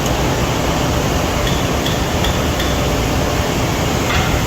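Steady running noise of a 600-ton Accurpress hydraulic press brake with its hydraulic pump motor on. Four light, high clinks come in quick succession in the middle, and there is a click near the end.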